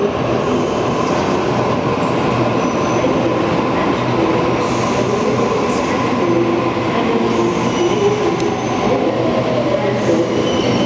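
Sydney Trains double-deck electric train pulling into an underground station platform: a steady rumble of wheels on rails with motor whine wavering in pitch. A higher squeal sets in near the end.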